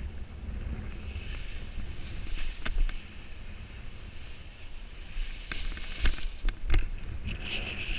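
Strong wind buffeting the microphone, a steady low rumble with hiss, broken by a few sharp snaps about three, six and seven seconds in.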